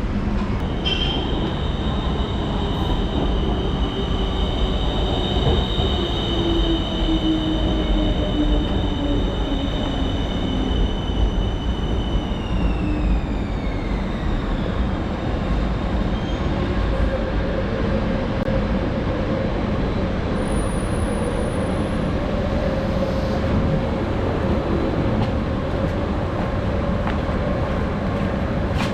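Bangkok BTS Skytrain car heard from inside while running: a steady rumble of wheels on track with the whine of the electric traction motors. Halfway through, the high whine slides down in pitch.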